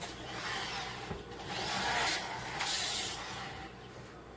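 Flour-and-water dumpling dough being kneaded by hand: a rubbing, scraping sound that swells and fades in repeated strokes about once a second.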